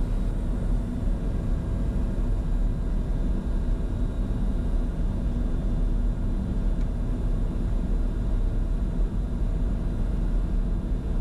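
Steady cockpit noise of a Bombardier Challenger 605 on final approach with landing gear down and flaps at 45: an even rush of airflow with faint steady engine tones over it.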